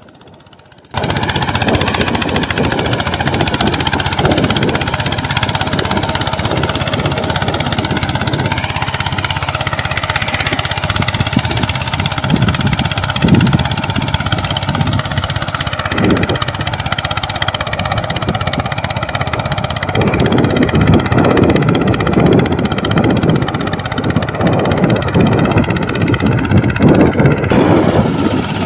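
Small engine of a homemade mini tractor running steadily. It cuts in abruptly about a second in and gets somewhat louder and rougher later on.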